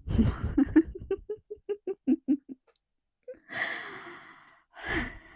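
A person laughing in a run of short, fading bursts of about four or five a second, then a long breathy exhale about three and a half seconds in and another breath near the end.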